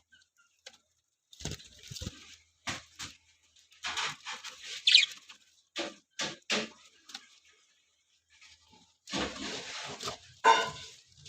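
Budgerigars chirping and squawking in short, scattered bursts, with a quiet gap of about two seconds past the middle.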